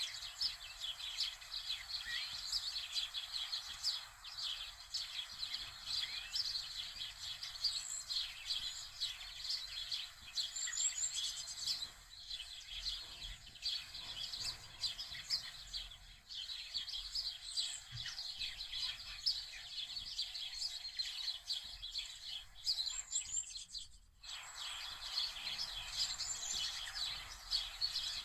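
Many small birds chirping and trilling in a steady, dense chorus, broken by a brief drop-out about 24 seconds in.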